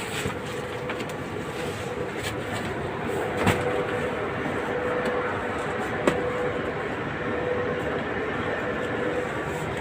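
Steady machinery noise with a faint steady hum, and two sharp knocks, one about three and a half seconds in and one about six seconds in.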